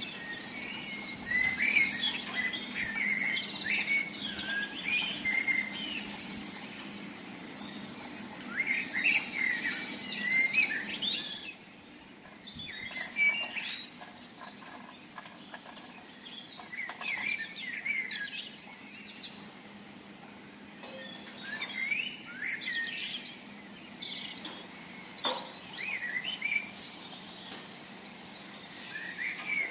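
Small birds chirping and singing in clusters of quick high notes, with pauses between the phrases. A low steady hum sits underneath and fades out about twelve seconds in.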